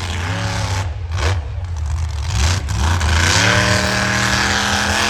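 Monster truck engine revving loudly: a short blip of throttle early on, then the pitch climbs over about a second and holds at high revs.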